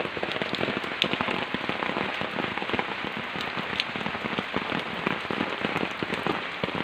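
Steady rain falling on plants, a dense hiss made of many separate drop ticks.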